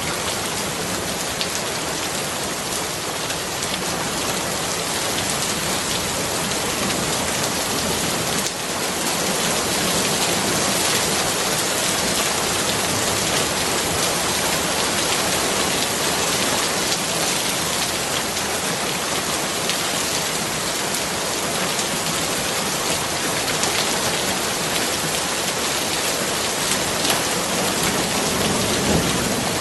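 Steady rain falling, an even hiss with fine scattered drop ticks throughout; it gets a little louder about eight seconds in.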